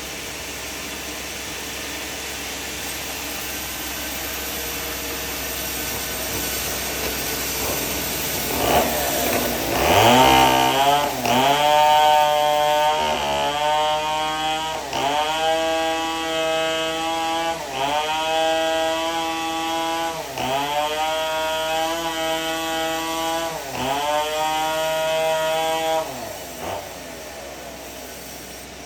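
Band sawmill cutting timber: the saw runs steadily, then from about ten seconds in a loud pitched whine rises as the blade cuts. The whine breaks about six times, dipping briefly in pitch and recovering each time, before it drops back to the plain running noise near the end.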